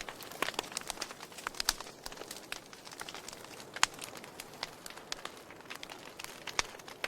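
Wood fire crackling in a fireplace: irregular sharp pops and snaps over a soft steady hiss, with one louder pop about halfway through.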